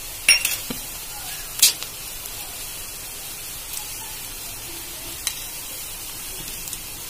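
Chopped onions and ground spices frying in hot oil in a kadai: a steady sizzle with a few sharp pops, the loudest two in the first two seconds.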